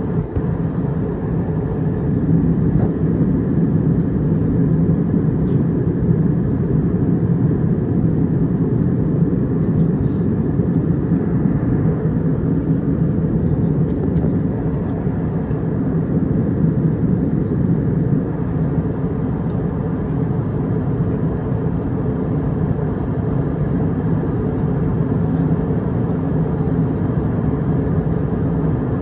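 Steady cabin noise of an Airbus A320 airliner in cruise, heard from inside the passenger cabin: a constant low rumble of engines and rushing air that does not change.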